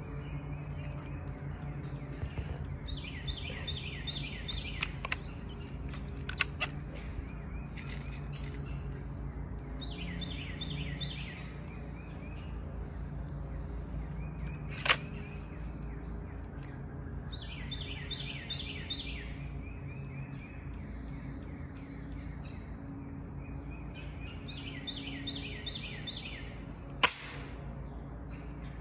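A songbird repeating the same short song of rapid notes four times, about every seven seconds, over a steady low hum. A few sharp clicks stand out, the loudest about halfway through and near the end.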